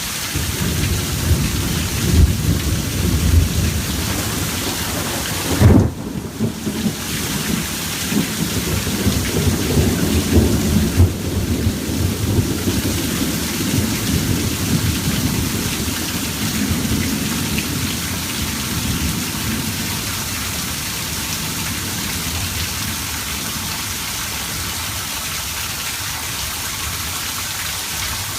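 Thunderstorm: steady heavy rain with rolling thunder, a sharp, loud thunderclap about six seconds in. The rumbling dies away after about twenty seconds, leaving the rain alone.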